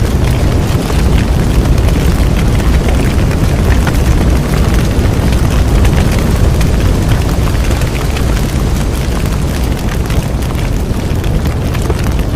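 Bonfire burning, with a deep steady rumble beneath dense, irregular crackling and popping of burning wood.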